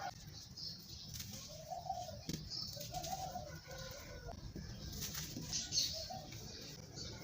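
Doves cooing, a short low call repeated about once a second, over a low rumble with a few faint crunches.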